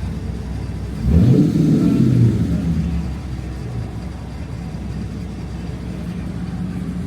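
A motor vehicle passing close by about a second in, its engine note falling in pitch as it goes, over a steady low rumble of street traffic.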